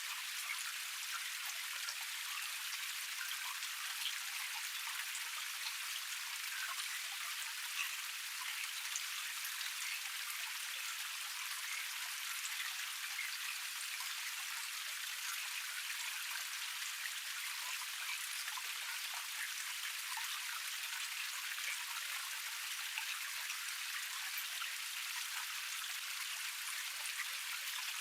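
Water of a small cascade tumbling and splashing steadily, a close patter of many small droplet splashes.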